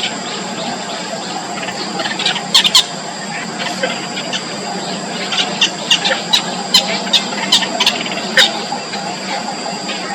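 Small birds at a nest giving short, sharp, high chirps: a pair about two and a half seconds in, then a quick run of about a dozen over the next few seconds. Under them is a steady background hiss with a steady high hum.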